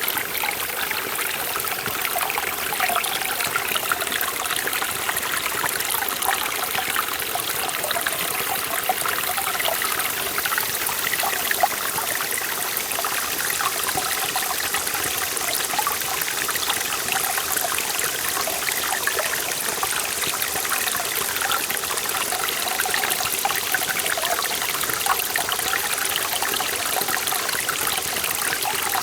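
Mountain stream in a forest valley, water flowing and splashing over rocks in a steady, bubbling rush.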